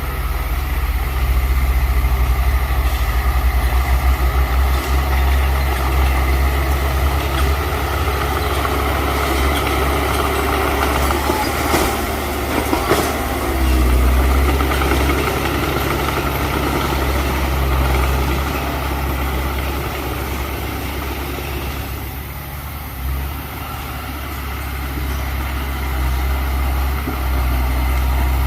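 Heavy earthmoving machine's diesel engine running steadily with a low drone, with two sharp knocks about halfway through.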